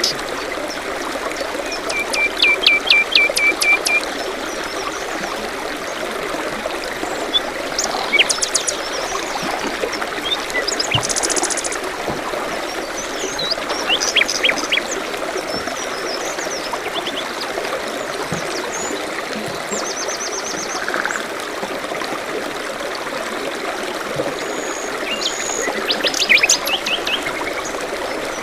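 A small stream babbling steadily, with songbirds calling over it: a quick run of repeated high notes about two seconds in, another near the end, and scattered chirps and short trills between.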